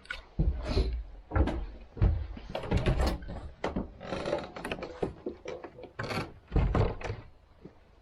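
A run of irregular knocks and thumps with a door being moved, heard in a small room.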